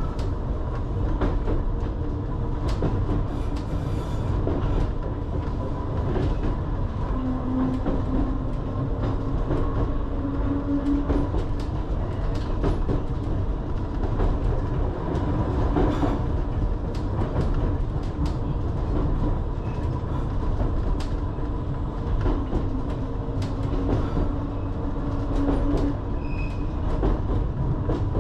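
Island Line Class 484 electric train running, heard from inside the carriage: a steady low rumble with a motor hum that rises and falls in pitch as the speed changes, and irregular clicks of the wheels over rail joints.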